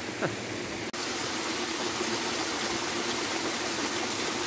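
Steady rushing of water, which the hiker takes for either the waterfall or heavy rain on the forest, stepping a little louder about a second in.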